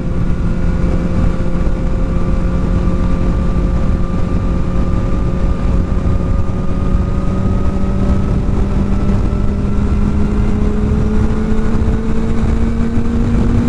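Kawasaki ZX-4R's inline-four engine through an aftermarket exhaust, pulling steadily while riding, its note rising slowly as it gains speed. Heavy wind rumble on the helmet microphone runs underneath.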